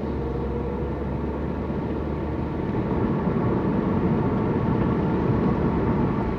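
Car engine and tyre noise heard from inside the cabin while driving: a steady low hum and rumble that grows slightly louder about halfway through.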